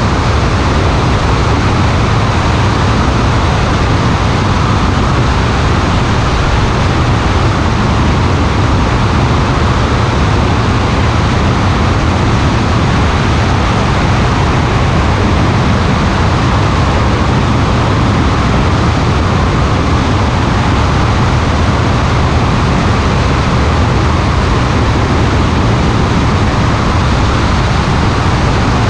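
Steady, loud rushing noise of an aircraft in flight, with air and motor noise blended into one even hiss and rumble that does not change.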